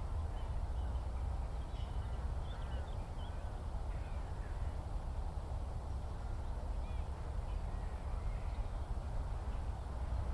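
Scattered faint bird chirps and short calls over a steady low rumble.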